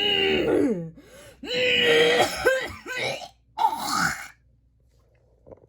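A person hawking and coughing in several harsh, rasping bursts over about three seconds, clearing the throat of what is called smoker's phlegm.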